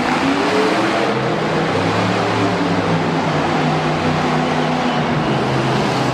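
Monster truck engine running loud, revving up right at the start and then holding and shifting in pitch as the throttle is worked.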